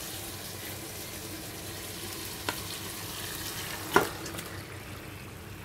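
Onion-tomato masala sizzling in hot oil in a pan on high flame as yogurt-marinated chicken pieces are tipped in from a bowl. A sharp knock about four seconds in, as the chicken lands, is the loudest sound. After it the sizzle quietens a little.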